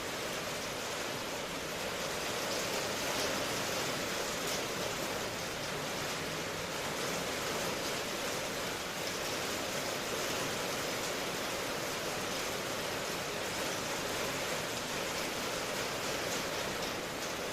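Steady rain falling, an even hiss with fine pattering and no thunder.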